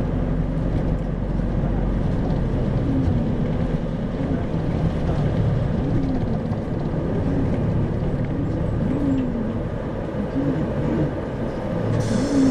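Running noise inside an Isuzu 2RG-LV290N4 city bus under way: a steady low engine and road drone. Faint rising-and-falling tones run through the middle, and a hiss starts near the end.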